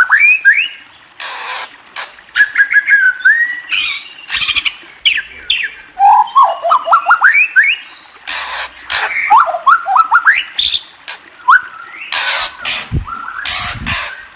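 A bird chirping in quick runs of short rising notes, mixed with several brief harsh, noisy bursts.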